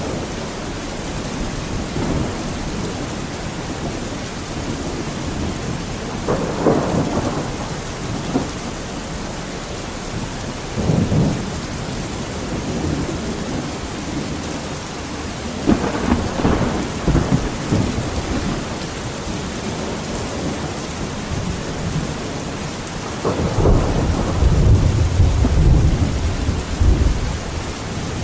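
Steady heavy rain with several rolls of thunder in a thunderstorm; the longest and deepest rumble comes near the end.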